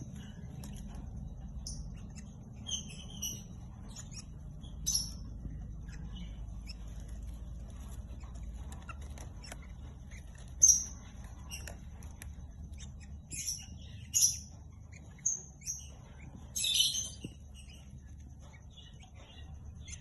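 Lovebirds giving short, high-pitched chirps and squeaks at irregular intervals, growing more frequent and louder in the second half, over a steady low hum.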